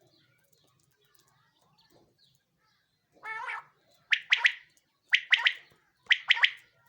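Common quail (singing quail) song: a short lower nasal note about three seconds in, then three quick three-note 'wet-my-lips' phrases about a second apart.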